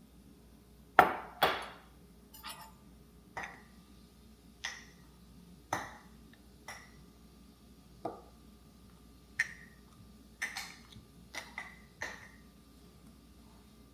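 Kitchenware being handled: a series of light clinks and taps, each with a short ring, about one a second, the first two loudest.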